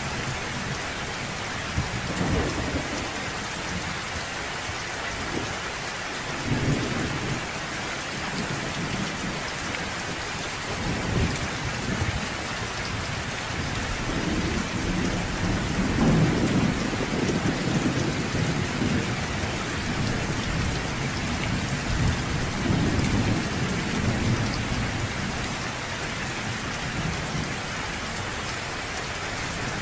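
Thunderstorm: steady rain falling, with several low, rolling thunder rumbles swelling and fading, the longest and loudest about halfway through.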